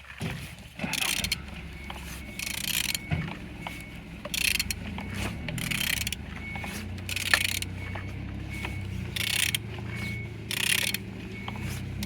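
Honda B16A 1.6-litre DOHC four-cylinder engine being turned over by hand with a wrench, a rasping ratcheting stroke about every one to one and a half seconds with mechanical clicks, showing the engine rotates freely.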